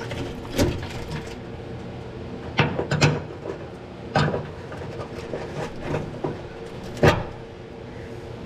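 Sharp metallic knocks and clanks of hand tools against the truck's metal, about half a dozen, the loudest near the end, over a steady low hum.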